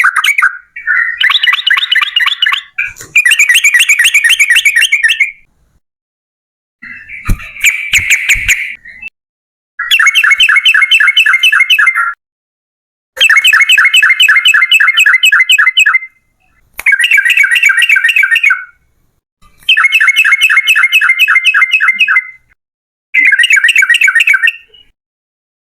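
Yellow-vented bulbul (trucukan) singing its long rapid-fire song: loud bouts of quickly repeated chattering notes, each lasting two to three seconds, separated by short pauses. There are a few low knocks about seven to eight seconds in.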